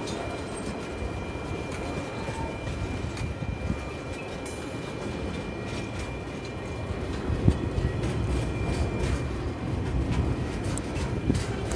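Freight train wagons rolling past: a steady rumble from the container and empty log flat wagons with scattered clicks and knocks from the wheels, one louder knock about halfway through. A thin steady high tone sounds through the first two-thirds, then fades.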